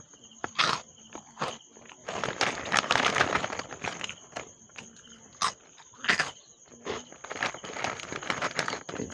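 Eating seafood close to the microphone: chewing, with irregular sharp crunches and clicks and a denser stretch of chewing about two seconds in.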